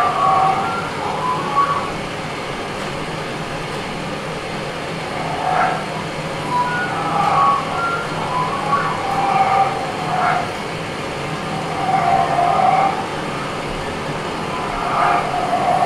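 Improvised experimental sound performance: a steady low hum and noise bed with short, scattered mid-pitched tones and brief pitch glides coming every second or two.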